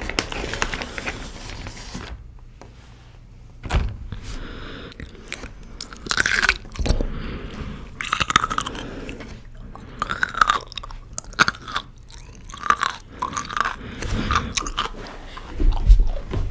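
Close-miked biting and chewing of a hot and spicy pickle: irregular crunches, with a few heavier bites about four seconds in, about seven seconds in and near the end.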